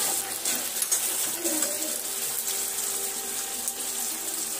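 Chopped onions and tomatoes sizzling in hot oil in a kadhai: a steady frying hiss, with a few light clicks of a spatula against the pan in the first second or two.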